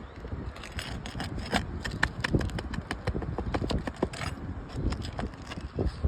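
Irregular taps, knocks and scrapes of hand tools working loose and handling asphalt 3-tab shingles on a roof.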